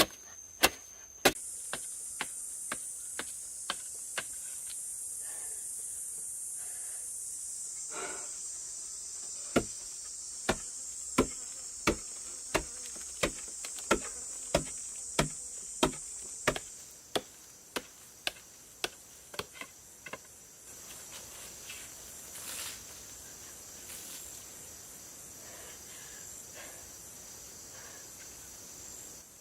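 A steady series of sharp tool strikes, about three every two seconds, as in chopping while building by hand, over a steady high insect buzz that stops abruptly a little past halfway.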